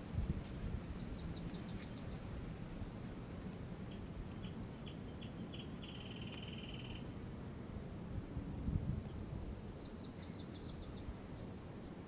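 Garden ambience with small birds singing: a quick trill of rapid high notes near the start and again near the end, and a run of short chirps leading into a brief buzzy note in the middle. Under them runs a low steady background rumble, with a couple of low bumps near the start and about two-thirds through.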